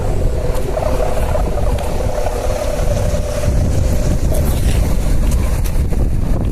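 Strong wind buffeting the microphone in a loud, steady low rumble. A steady hum runs beneath it for about the first four seconds and then fades out.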